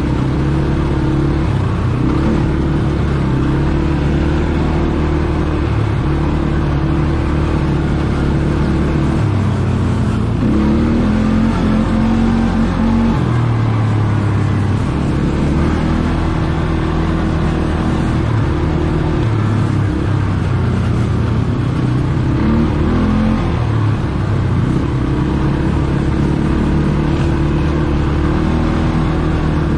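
ATV engine running under way, its pitch shifting up and down with the throttle, over a steady rushing noise.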